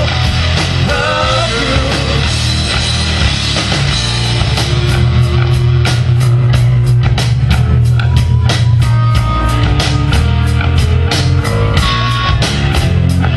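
A rock band playing an instrumental passage with distorted electric guitar, bass guitar and a steady drum beat.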